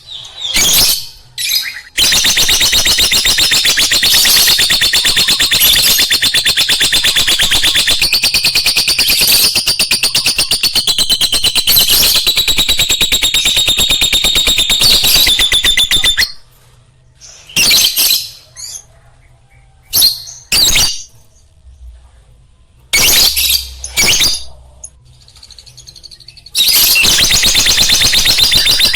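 Lovebird chattering: long runs of rapid, shrill chirps, broken in the middle by about ten seconds holding only a few short isolated sounds.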